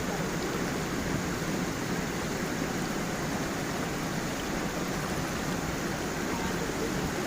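Stream water flowing over a small waterfall, a steady, unbroken rush.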